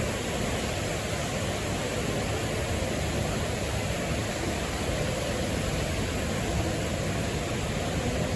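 Steady, even rushing noise with a low rumble beneath it and no distinct events: the background sound of a ride boat moving through the greenhouses.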